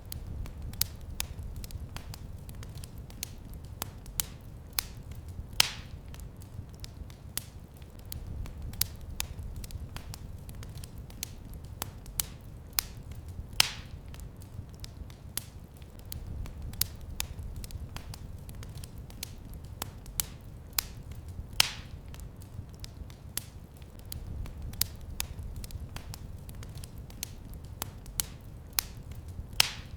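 Wood fire crackling in a fireplace: frequent small snaps and pops over a low steady rumble, with a louder pop about every eight seconds.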